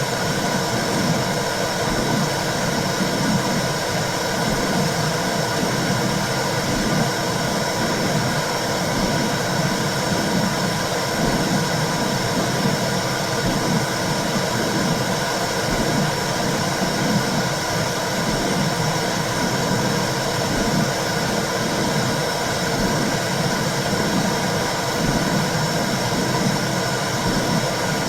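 Womb sound for soothing babies: a steady rushing hiss over a low whooshing that pulses in an even rhythm, like a heartbeat heard through the uterus.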